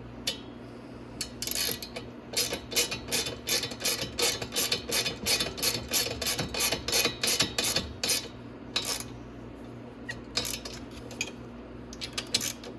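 Socket ratchet clicking in quick bursts as the muffler mounting bolt on a 125cc Chinese ATV exhaust is tightened, about two or three bursts a second for several seconds, then a few scattered clicks near the end, over a steady low hum.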